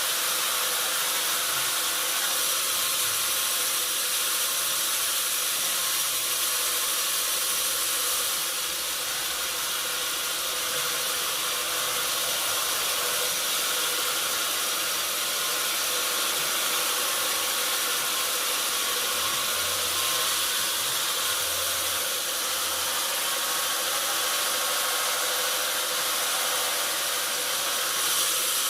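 Sawmill machinery running steadily: a constant hissing noise with a faint underlying hum, no distinct cuts or knocks.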